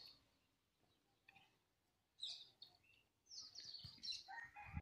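Faint bird chirps: a quick run of high, falling chirps about two seconds in and another about a second later, over an otherwise near-quiet background.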